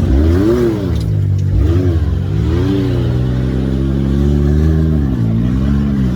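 Can-Am Maverick X3 side-by-side's engine working under load, its revs rising and falling several times as the throttle is fed in and eased off while crawling a rocky trail.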